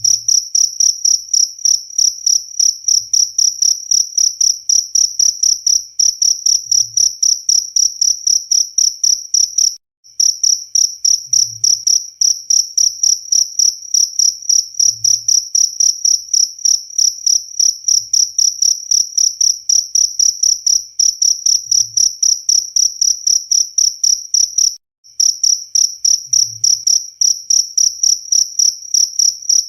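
Cricket chirping: a high, steady-pitched chirp repeated about four times a second. It breaks off briefly twice, about ten seconds in and about five seconds before the end.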